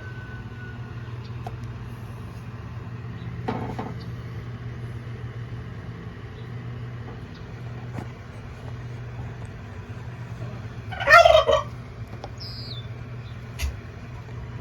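A turkey gobbles loudly about eleven seconds in, with a fainter call-like burst earlier, over a steady low hum.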